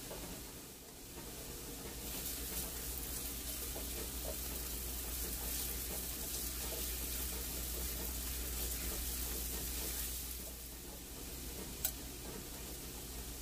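Food sizzling and crackling as it fries in hot oil, swelling about two seconds in and easing off after about ten seconds. A single sharp click near the end.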